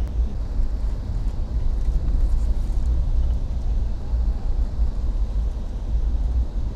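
Moving passenger train's steady low rumble, heard from inside the carriage.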